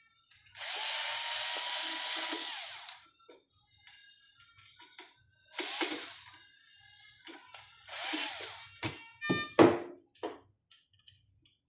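Small electric screwdriver running on screws in the patient monitor's casing: one run of about two seconds, a brief one, then another of under a second, with clicks and knocks of tools and parts in between.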